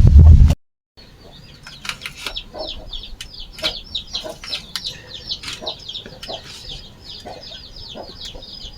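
A loud low rumbling noise cuts off about half a second in. Then comes a rapid, continuous string of short, high, falling peeps, several a second, typical of domestic chicks, with a few light knocks among them.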